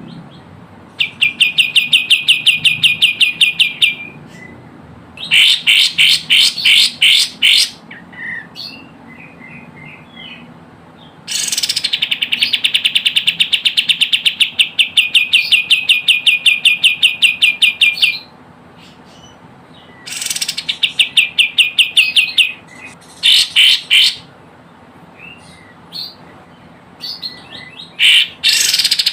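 Kapas tembak bird calling in rapid trills of sharp, evenly repeated notes, each trill lasting a few seconds, the longest about seven seconds near the middle, with a few single chirps in the gaps. It is a recorded lure call of the kind used to draw in wild kapas tembak.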